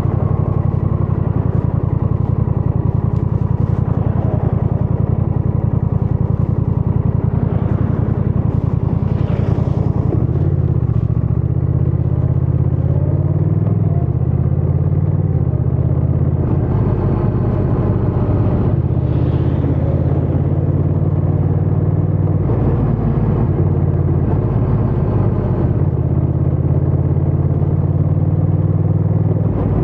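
Honda Rebel 1100 DCT's 1084 cc parallel-twin engine and exhaust running steadily under way, heard from the rider's position, with the engine note changing pitch a few times as the bike speeds up, slows and shifts gear.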